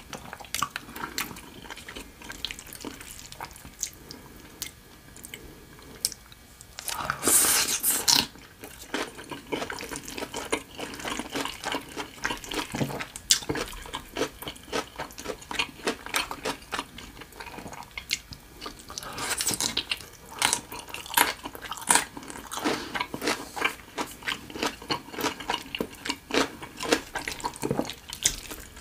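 Close-miked wet chewing and mouth sounds of someone eating stir-fried rice noodles, made up of many small, quick wet clicks. There are two louder, noisier stretches, about seven seconds in and again around nineteen seconds.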